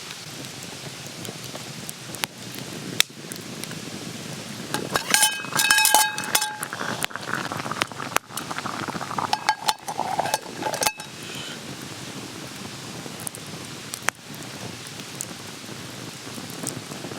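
Metal cookware clinking several times, ringing briefly, about five to six seconds in, over a steady hiss with scattered sharp clicks.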